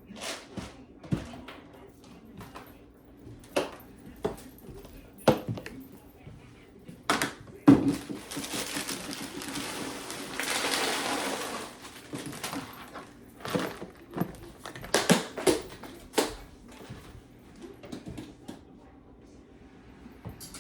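Household objects being handled and set down: scattered knocks and clatters, with a stretch of rustling noise lasting about four seconds in the middle.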